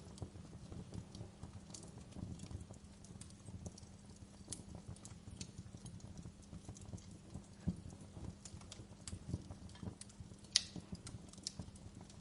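Wood fire crackling: irregular small pops and snaps, the sharpest one a little over ten seconds in, over a low steady rumble of the burning fire.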